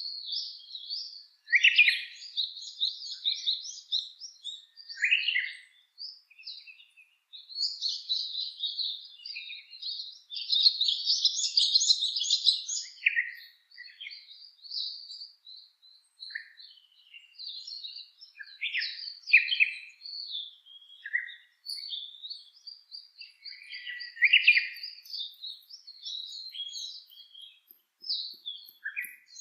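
Birds singing, a dense run of short chirps and trills that comes and goes, busiest around ten to thirteen seconds in.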